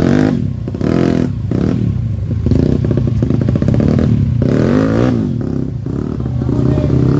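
Dirt bike engine revving up and down repeatedly, its pitch rising and falling with the throttle.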